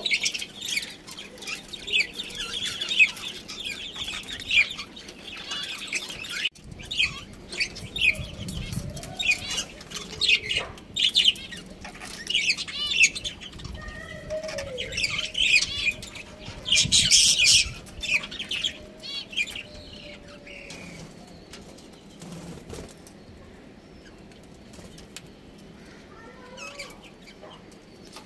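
A group of budgerigars chirping and chattering in quick, warbling calls, with bursts of wing flapping. The chatter thins out after about twenty seconds.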